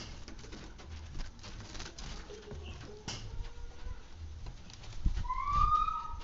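Light pattering and ticking of water drops and splashing as a brown-throated sunbird is bathed. About five seconds in, one drawn-out bird call that rises slightly and lasts about a second, louder than the rest.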